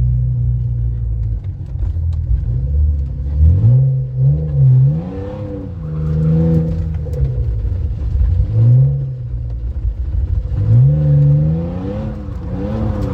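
BMW E46 328i's straight-six engine revving up and falling back three times as the car is driven with its welded, locked differential.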